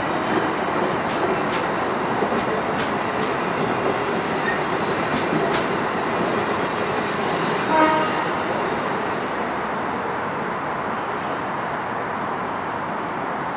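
Passenger train rolling past on electrified track, wheels clicking over rail joints over a steady rumble. A short pitched tone sounds about eight seconds in, and the rumble eases off slightly afterwards.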